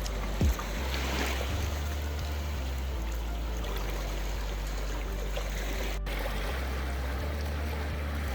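Sea water lapping and washing at the shore, with a low rumble of wind on the microphone that comes and goes. A short thump about half a second in, and a brief dropout about six seconds in.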